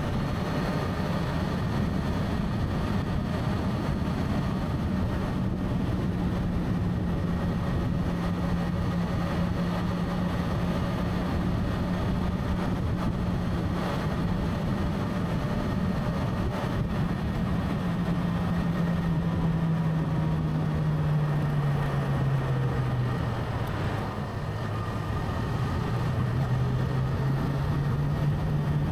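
Motorcycle engine running at a steady pitch over a constant rushing noise. Near the end the revs drop and the engine note falls, then it picks up again.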